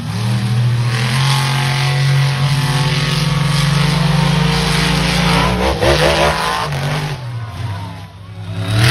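Monster truck engine held at high revs for several seconds, then dropping and blipping up and down about six seconds in, easing off and surging again near the end.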